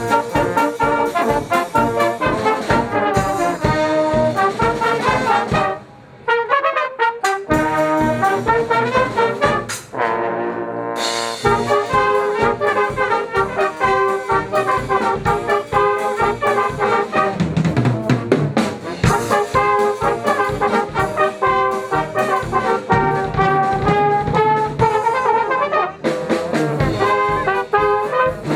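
Brass band playing live, the music dropping out briefly about six seconds in before it carries on.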